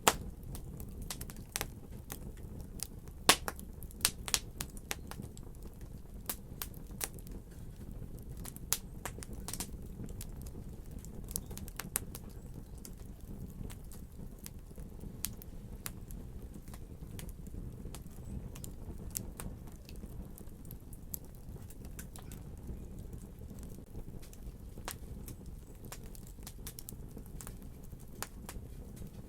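Wood fire crackling: irregular sharp pops and snaps over a low, steady rumble of flames, the pops coming thickest in the first ten seconds and thinning out after.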